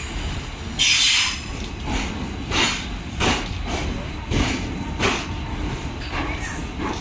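ICF passenger coaches rolling past at low speed, their wheels clacking over rail joints in a repeating rhythm over a low rumble. There is a brief hiss about a second in.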